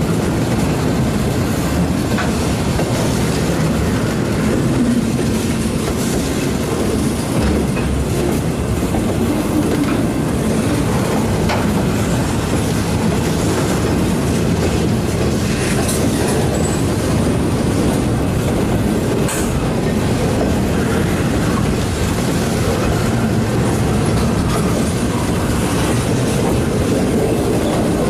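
Loaded freight flatcars rolling past: a steady rumble of steel wheels on rail, with occasional clacks as wheels cross rail joints.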